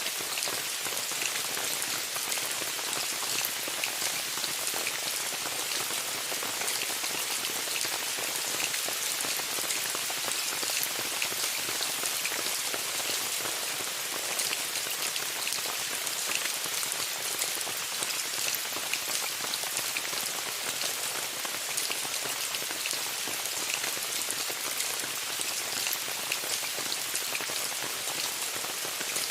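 Steady rain falling on a tent: an even hiss dotted with many separate drop ticks.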